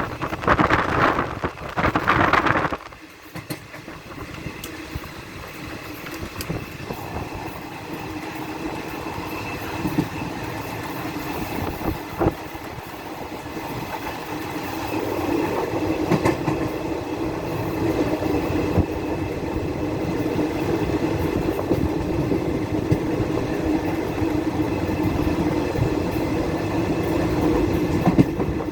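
Train running on the rails: loud gusty noise for the first few seconds, then a steady rumble that grows slowly louder, with an occasional clack from the wheels.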